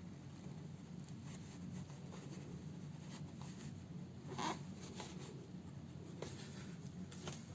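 Faint scratching and rustling of hand sewing: a needle and thread drawn through the fabric of a house slipper, with a few light clicks and one sharper scratching stroke about halfway through, over a steady low hum.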